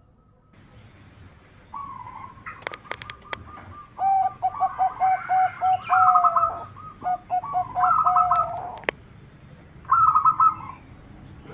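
Zebra doves (perkutut) cooing in rapid runs of repeated notes, loudest from about four seconds in. A few sharp clicks come early on and once more near the end.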